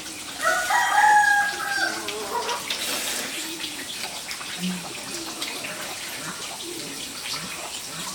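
Rooster crowing once, a call lasting about a second and a half shortly after the start.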